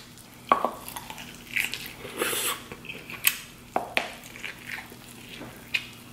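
Close-miked biting and chewing of buttered corn on the cob: irregular wet, squishy mouth sounds broken by a few sharp clicks and smacks.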